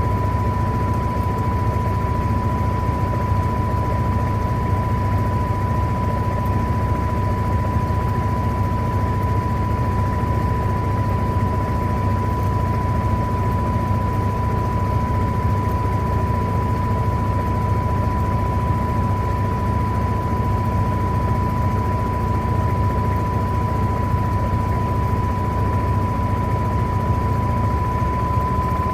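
Electrolux LTA15 top-loading washing machine running steadily with a constant high whine over a low rumble.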